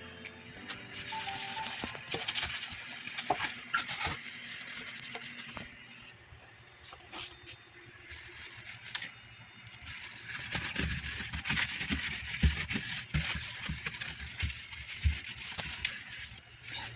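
Scrubbing and rubbing on the fridge's plastic interior, broken by frequent small clicks and clinks. In the second half there are soft low knocks.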